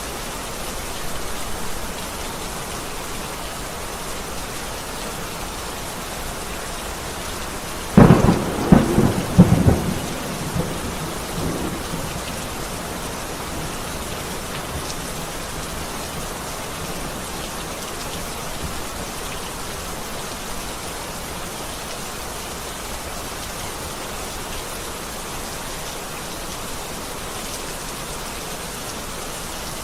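Heavy rain falling steadily, with a sharp, loud thunderclap about eight seconds in that crackles and rolls for two to three seconds before the rain carries on alone.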